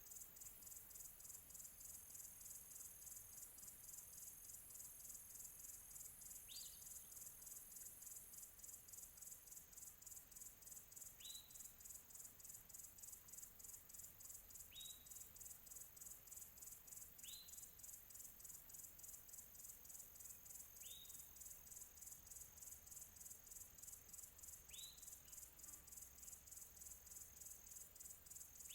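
Crickets chirping in a steady, fast-pulsing trill. A bird gives a short upward chirp every three to five seconds.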